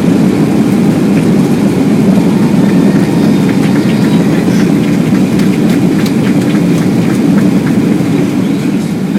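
Boeing 757-200 cabin during landing: loud, steady jet engine and airflow roar with light rattles of cabin fittings, easing a little near the end.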